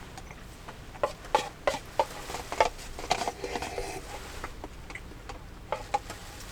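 Irregular clatter of small things being handled at close range: a run of sharp clicks and knocks, the loudest in the first three seconds, with a short ringing clink in the middle.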